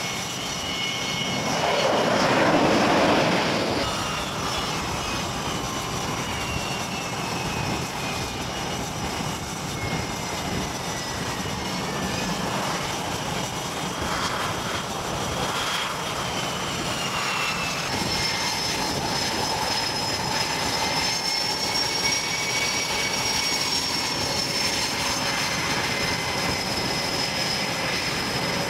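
Fixed-wing aircraft engines running, a steady loud noise with high whining tones that drift slowly up and down in pitch. A louder surge comes about two to three seconds in.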